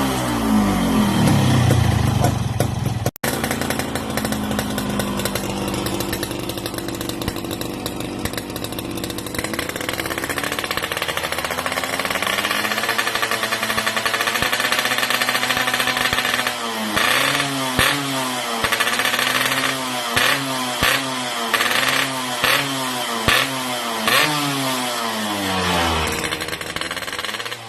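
Yamaha RX-King 135 cc two-stroke single-cylinder engine with a Boban 'bobokan' aftermarket exhaust being revved while stationary. Revs fall away at first, climb and hold high for a few seconds, then come as a series of about nine quick throttle blips before settling back down near the end.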